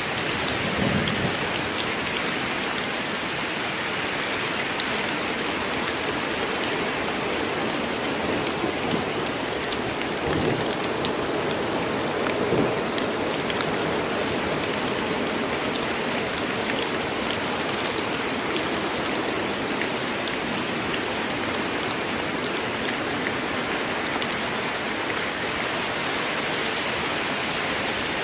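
Steady heavy rain falling through a forest, an even hiss with scattered drops ticking close by and a few brief low swells.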